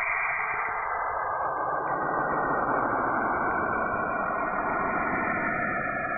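Eerie planet 'sound' made from spacecraft recordings converted to audio: a steady, dense, hissing drone with faint wavering tones through it, dull and muffled.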